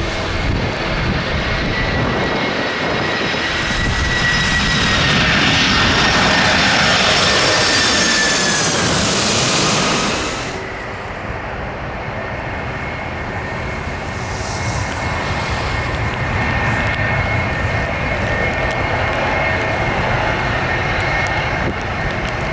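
Jet airliner passing close by, its engine whine sliding down in pitch as it goes past and loudest about five to ten seconds in. About ten seconds in the noise drops off to a steadier, quieter engine rumble.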